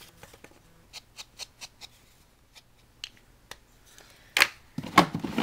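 Small chalk ink pad being dabbed along the edges of a paper cut-out: a run of light, quick taps, a few scattered ones, then two louder knocks and paper handling near the end.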